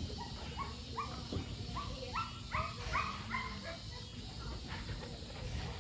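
American bully dogs barking and yipping at feeding time, many short barks in quick succession, loudest around the middle.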